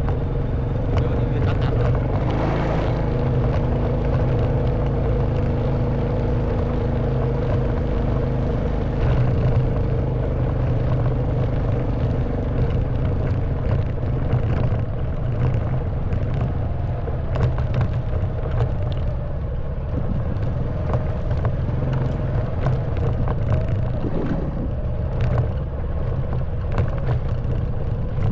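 Honda Wave 110cc single-cylinder four-stroke motorbike engine running steadily while riding a rough stone track, with scattered knocks and rattles, more frequent in the second half.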